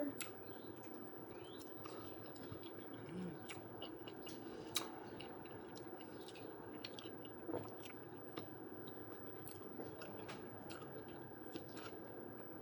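Close-up chewing of breakfast food, with scattered wet mouth clicks and smacks and one louder click about five seconds in, over a faint steady hum.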